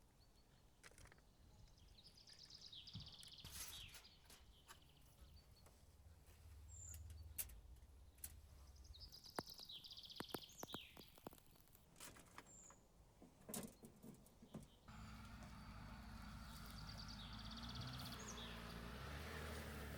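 Songbirds singing a few short chirping phrases, with scattered sharp clicks. About fifteen seconds in, a low, steady vehicle engine hum comes in.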